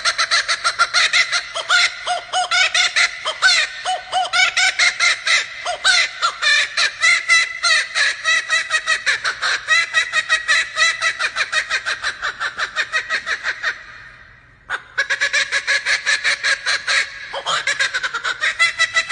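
Male laughing kookaburra giving its laughing call: a long, loud run of rapid repeated notes, broken by a brief pause about fourteen seconds in, then starting up again.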